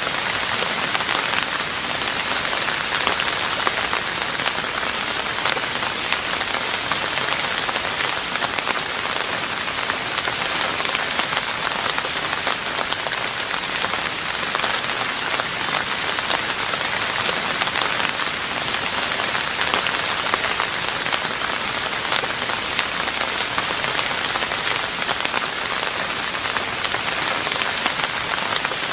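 Steady rain falling on a roof, a dense even patter of many drops with no breaks.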